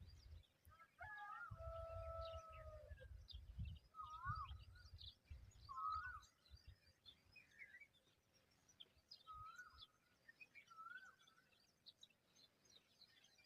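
Faint birdsong: short fluty whistled phrases, each with a quick up-and-down twist in pitch, repeated about half a dozen times over a scatter of high chirps from other birds. Early on one long two-note whistle is held for a second or more, and low wind rumble comes and goes through the first half.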